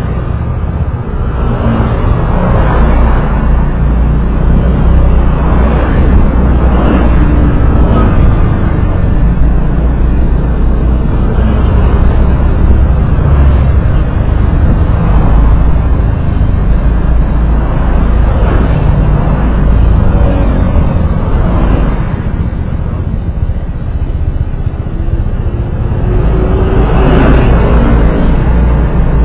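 Steady low rumble of road driving, with louder swells about five times as traffic noise rises and falls.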